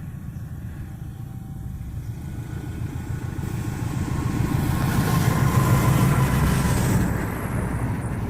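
Train passing: a KAI CC201 diesel-hauled train's low rumble grows louder from about two seconds in, peaks around five to seven seconds, then eases off near the end.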